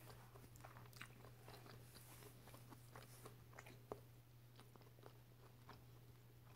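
Faint closed-mouth chewing: scattered soft wet mouth clicks, one a little louder about four seconds in, over a steady low hum.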